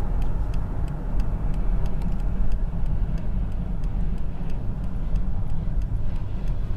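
Mercedes-Benz E240 (W210) V6 petrol car under way at the start of an acceleration run: a steady, loud low engine and road rumble. A faint regular ticking, about three times a second, runs under it.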